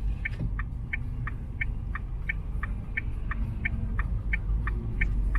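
Renault Arkana's turn-signal indicator ticking steadily, about three ticks a second, over the low rumble of the engine and tyres inside the cabin.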